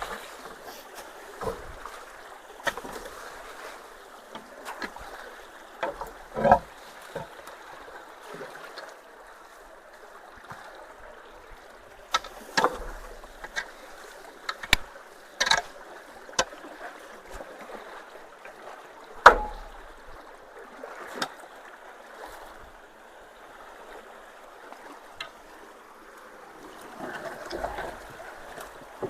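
Creek water rushing steadily through low-water-bridge culverts, with scattered sharp knocks and clatters over it, the loudest about two-thirds of the way through.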